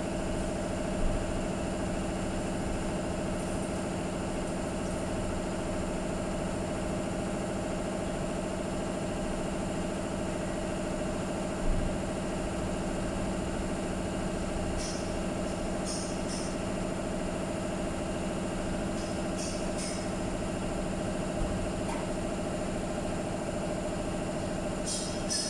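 A machine running with a steady, unchanging hum, with a few faint high ticks in the second half.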